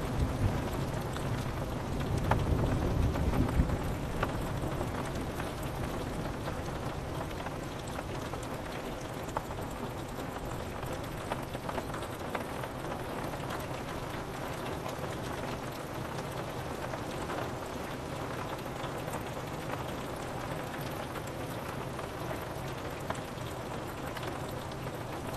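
Steady rain on a window pane, with scattered drop ticks. A low rumble of thunder swells and fades away in the first few seconds.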